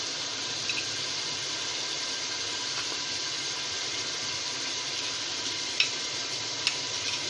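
Onion-and-spice masala sizzling steadily in hot oil in a pressure cooker, with a few brief sharp clicks as raw beef pieces are dropped in.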